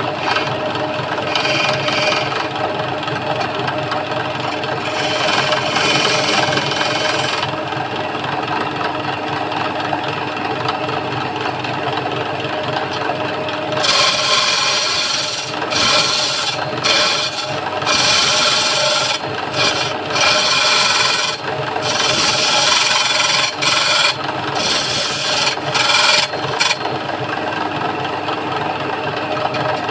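Wood lathe motor running with a steady hum while a turning chisel scrapes and cuts the spinning wooden stool leg. About halfway through the cutting grows louder and comes in repeated strokes with short breaks as the tool is pressed in and lifted off.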